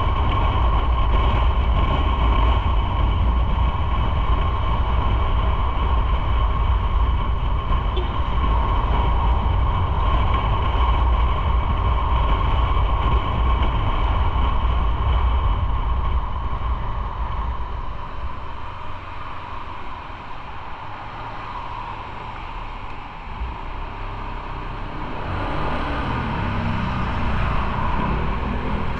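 Motorcycle on the move: engine running under heavy wind and road rumble. The low rumble eases off about halfway through, and near the end the engine note climbs in pitch as the bike accelerates.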